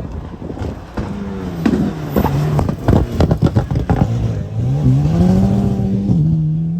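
Rally car engine driven hard past the spectators: revs rise and fall through gear changes, with a rapid crackle of sharp pops in the middle. It then accelerates and shifts up near the end.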